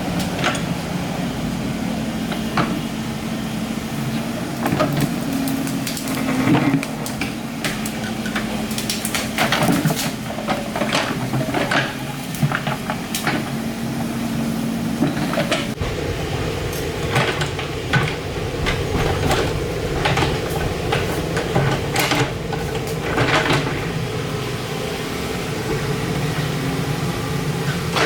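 Excavator's diesel engine running steadily, with repeated metal clanks and knocks as it works; the engine note changes about halfway through.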